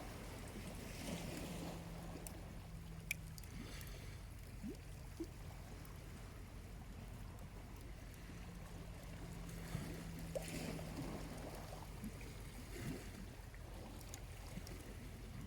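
Small waves washing gently onto a beach, swelling twice, with a few sharp crackles from a charcoal campfire.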